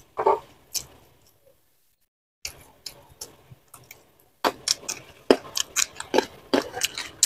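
Close-miked chewing of raw leunca berries: a run of sharp, crunchy clicks several times a second that starts about halfway through, after a mostly quiet first half.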